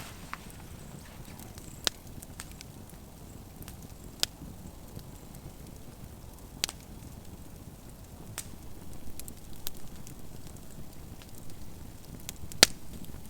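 Campfire crackling, with a few sharp, irregular pops over a steady low hiss; the loudest pop comes near the end.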